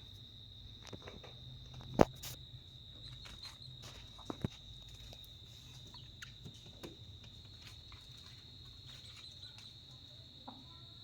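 A steady high insect chorus, like crickets, with scattered light taps and clicks; a sharp knock about two seconds in and two more just after four seconds.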